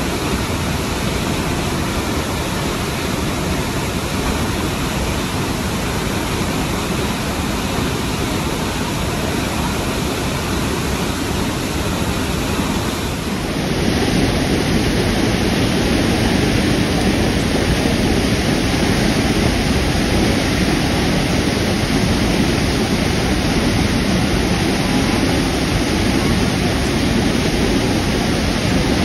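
Steady roar of the Iguaçu Falls: a massive waterfall's thick, even rushing noise with no breaks. It gets louder and fuller about halfway through.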